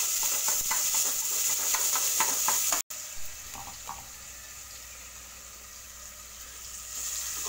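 Ginger-garlic paste and whole spices sizzling in hot oil in an aluminium pressure cooker, with a metal perforated spoon clicking and scraping against the pot as it stirs. About three seconds in the sound cuts out for an instant, then the sizzling goes on more quietly.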